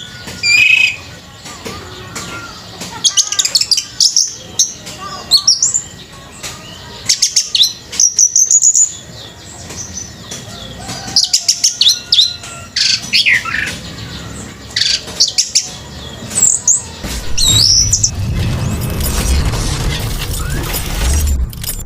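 Orange-headed thrush (anis merah) singing in loud, separate bursts of varied whistles, chirps and fast trills. Near the end a steady low rumbling noise rises beneath the song.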